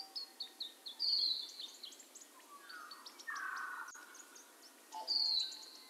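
Birds singing and calling: a busy mix of short rapid chirps and whistled notes, with a louder falling whistle about a second in and another near the end.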